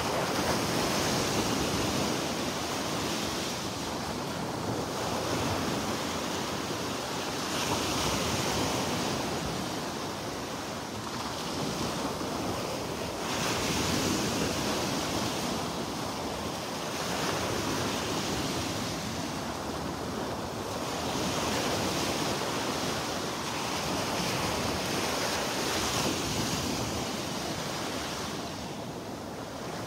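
Small Gulf of Mexico surf washing onto the beach, the rush swelling and easing every few seconds, with wind buffeting the microphone.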